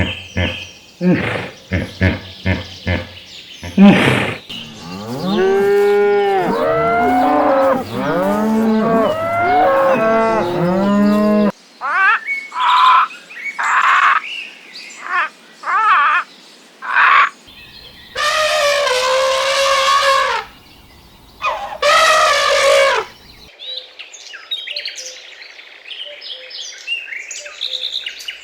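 A run of farm animal calls, among them a cow mooing in long drawn-out calls. It begins with a quick series of clicks and ends with birds chirping.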